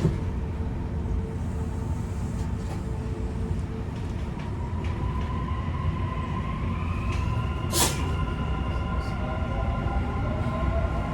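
Dubai Metro Red Line train heard from inside the car as it pulls away from the station: a steady rumble with the electric motor whine rising in pitch as it gathers speed. A knock at the start and a brief sharp noise about eight seconds in.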